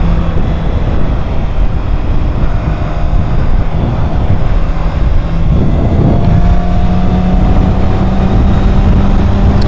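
A Kawasaki Ninja ZX-6R 636's inline-four engine running under way, heavily mixed with wind rush on the action-camera microphone. In the second half the engine note climbs slowly as the bike gathers speed.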